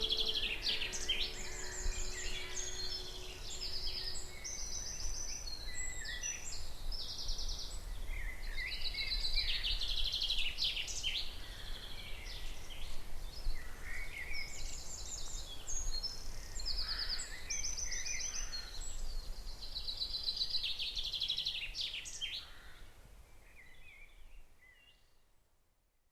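Woodland songbirds singing: bright trilled phrases repeated every few seconds among shorter chirps, fading out near the end. Background music fades away in the first few seconds.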